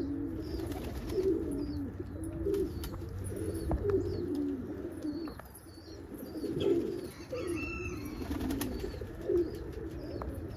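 Domestic fancy pigeons cooing over and over, with faint short high chirps scattered through.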